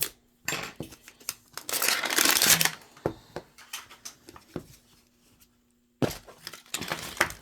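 Plastic packaging of a blind-box collectible capsule being torn open and crinkled by hand, with small plastic clicks between. The loudest tearing comes about two seconds in, and there is another burst of rustling near the end.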